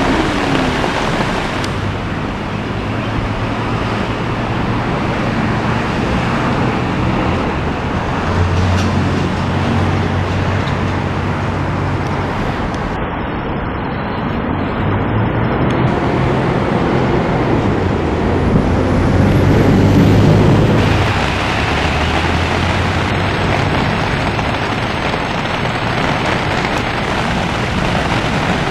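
Steady rushing noise of heavy rain and floodwater, with the low hum of vehicle engines coming and going. One engine swells louder about two-thirds of the way through.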